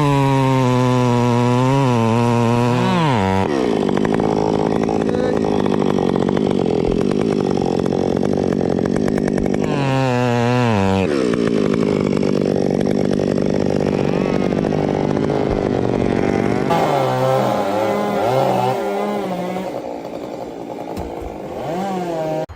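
Chainsaw revving, then cutting into a tree trunk. Its pitch drops and holds as the chain bites into the wood about three seconds in, rises again briefly around ten seconds, then settles back into the cut. The sound gets quieter and more uneven near the end.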